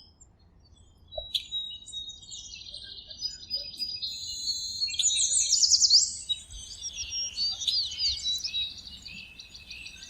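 Songbirds chirping and singing, with rapid trills and quick whistled sweeps, starting about a second in and growing busier.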